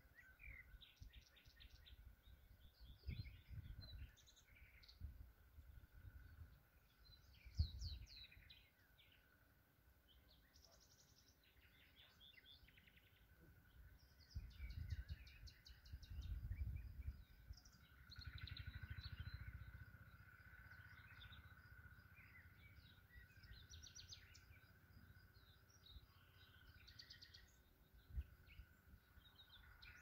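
Faint songbirds singing and chirping in overlapping short trills and phrases, over intermittent low rumbling noise, with one sharp low thump about eight seconds in.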